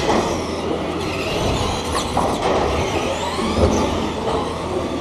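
Several radio-controlled racing trucks running around the track together, their high-pitched motor whines rising and falling as they speed up and slow down, over a steady background noise.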